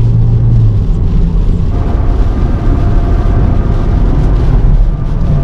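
Car driving in strong storm wind: a loud, steady low rumble of road and wind noise.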